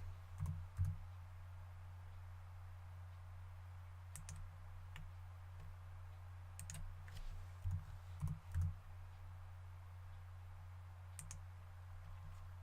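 Scattered computer mouse clicks and keyboard keystrokes, about eight in all, over a steady low electrical hum.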